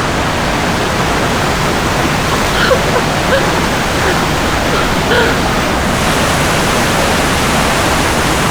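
Waterfall rushing: a loud, steady roar of falling water, with faint voices a few times.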